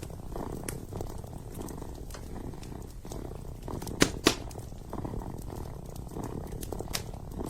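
Kitten purring steadily and close up, with a wood fire crackling in a fireplace: scattered sharp snaps throughout and two loud pops about four seconds in.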